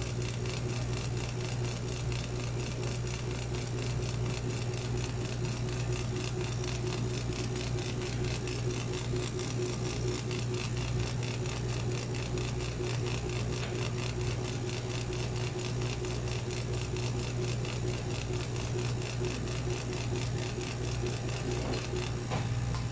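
CNC router running steadily on a wooden cutting board, a constant low hum with a fast, even mechanical rattle over it.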